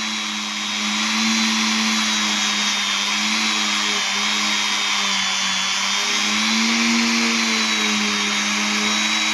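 Small electric motor running at a steady speed: a constant hum with a faint high whine over a hiss.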